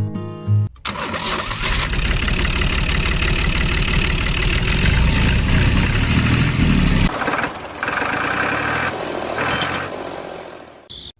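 Loud, steady engine-like mechanical noise that starts abruptly just after a short bit of guitar music, then drops to a quieter level about seven seconds in and fades away near the end.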